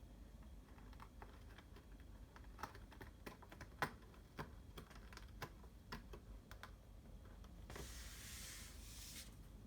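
Faint, irregular clicks and taps for several seconds, then a short hiss-like rush lasting about a second and a half near the end.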